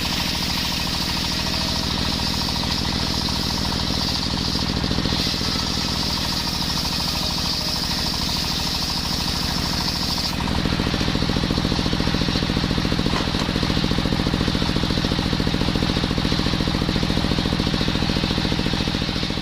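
Small engine-driven circular wood saw running hard, with a rapid engine pulse and a high hiss from the blade in coconut wood. About ten seconds in the hiss drops away and the lower engine note gets stronger and a little louder.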